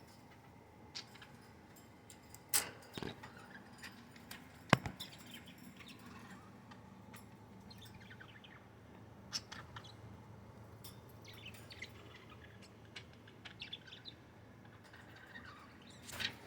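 Budgerigars chirping and chattering in short, scattered calls, with a couple of sharp clicks, the loudest a little under five seconds in, over a faint low hum.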